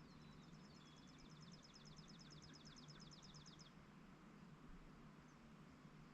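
A songbird's fast, even trill of high notes, about eight a second, faint against a quiet rural background, stopping about halfway through; a steady low hum sits underneath.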